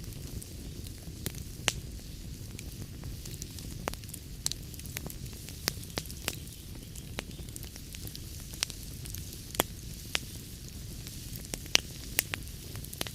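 Wood fire burning in a fireplace: a low steady rumble with scattered sharp crackles and pops from the logs, a few each second and some louder than the rest.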